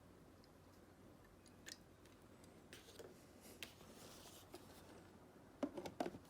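Faint handling sounds over low room noise: scattered light clicks and short rustles, with a cluster of louder clicks near the end.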